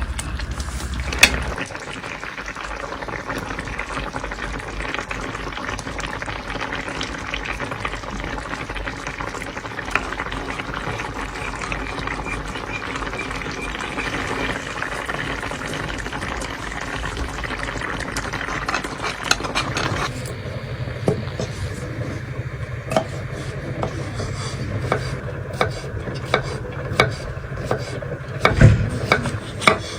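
Food cooking in a pan or pot: a steady crackling sizzle with stirring for the first two-thirds. Then it changes abruptly to scattered separate knocks and clinks over a low hum.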